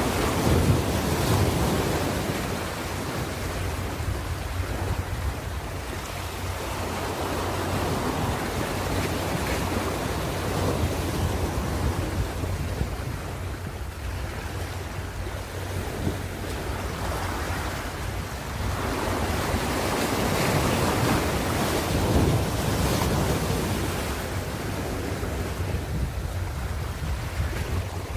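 Ocean waves washing ashore, the surf swelling and ebbing every few seconds over a steady low rumble, with some wind noise on the microphone.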